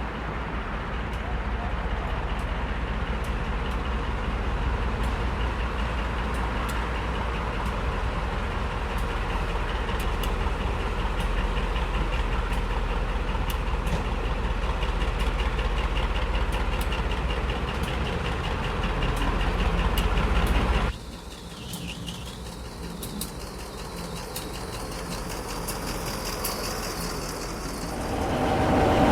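Railway train running with a steady low rumble. About twenty seconds in, the sound cuts abruptly to a quieter rumble that builds again near the end.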